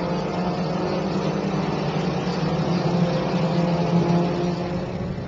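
Engines of 1000 cc superbike racing motorcycles running at steady revs: a steady drone that swells slightly around the middle and eases off near the end.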